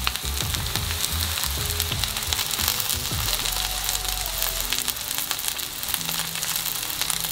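Panko-breaded chicken tenders shallow-frying in a thin layer of oil: a steady sizzle with fine crackling spatter throughout.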